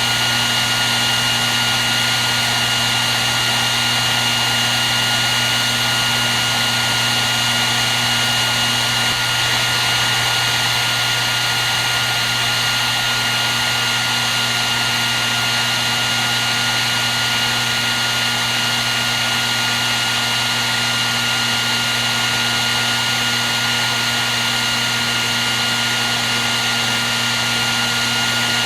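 Hair dryer running continuously: a steady rush of blown air with a constant motor whine, unchanging throughout.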